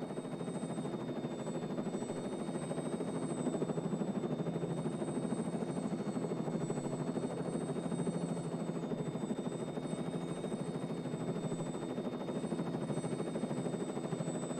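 Helicopter in flight: a steady, fast rotor chop under a continuous high turbine whine.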